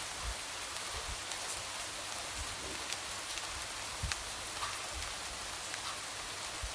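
Light rain falling steadily, with a constant hiss and scattered sharp drops tapping against a window.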